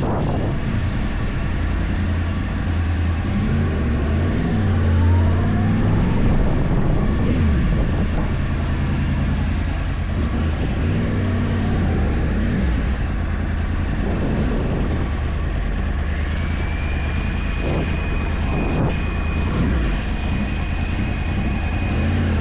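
Yamaha YZF-R1 crossplane inline-four running through a full Akrapovič exhaust, heard from on board while riding, its revs climbing and dropping several times. A thin steady high whistle joins about two-thirds of the way in.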